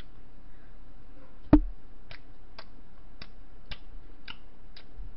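Close-miked chewing of bread: sharp mouth clicks about twice a second, with one louder thump about a second and a half in.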